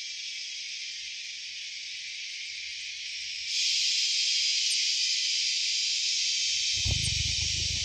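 Chorus of insects in the surrounding vegetation: a steady, high, hissing buzz that grows louder about three and a half seconds in. Near the end there is a brief low rumble or bump.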